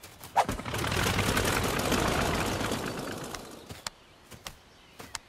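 Cartoon sound effect of a small flying gadget zooming off: a rapid rattling rush that starts about half a second in, swells and fades away over about three seconds, followed by a few faint clicks.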